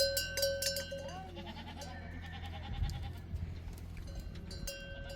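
A flock of goats or sheep with a few short bleats about a second in, and steady ringing from what are probably the animals' neck bells.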